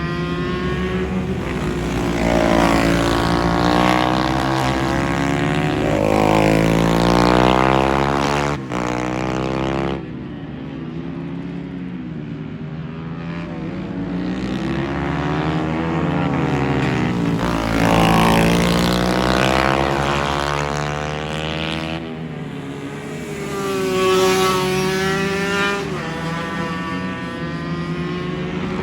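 Several small racing motorcycles running on a circuit, their engine notes overlapping and repeatedly rising and falling in pitch as they rev up and shift, passing by one after another.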